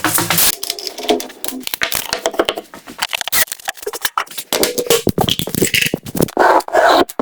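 A dense, irregular clatter of clicks, knocks and scrapes, the kind made by working sticks, bark or soil by hand, with a few longer rustling scrapes near the end.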